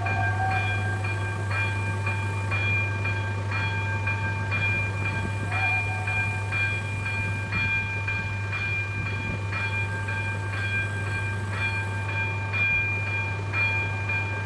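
Level crossing's electronic warning bell ringing, one strike about every second, over a steady low drone of a train at the crossing.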